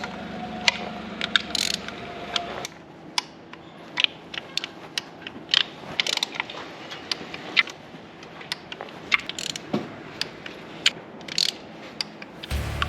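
Torque wrench ratchet clicking in short, irregular runs as engine-cover bolts are rechecked at 8 newton metres.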